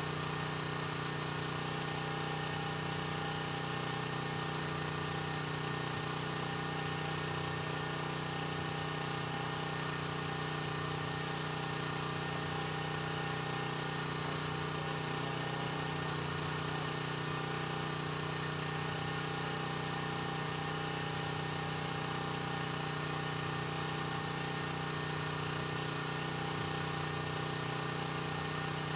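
An engine running steadily at an unchanging speed, a constant hum with a strong low tone.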